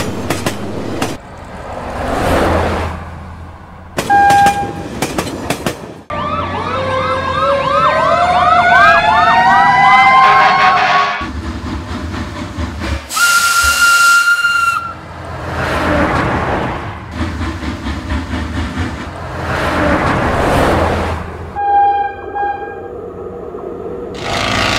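Dubbed train sound effects: trains rushing past in several swells, and a steam locomotive's whistle blown once about halfway through. Before the whistle comes a long stretch of rising, wavering siren-like wails, and a short single tone sounds twice.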